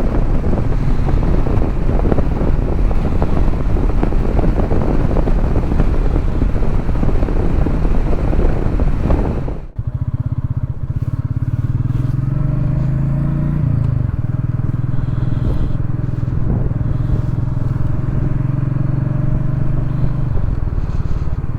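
Royal Enfield Meteor 350's single-cylinder engine running under way, buried in heavy wind rush for the first ten seconds. After an abrupt break the engine comes through clearer and steadier, rising in pitch as the bike accelerates for a couple of seconds, then holding a steady note.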